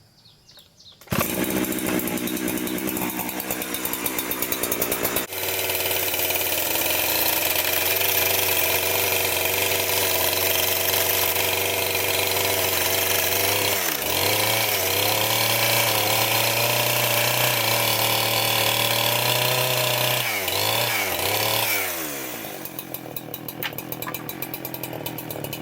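Power saw cutting wood: a loud, steady motor whose pitch dips and recovers twice as it bogs under load, easing off near the end.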